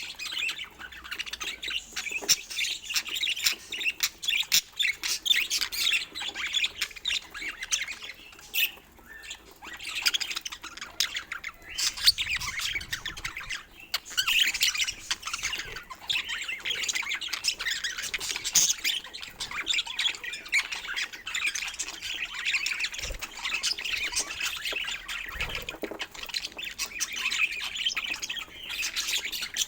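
Budgerigars chattering and chirping in a fast, continuous warble of short squawks and chirps, with brief lulls.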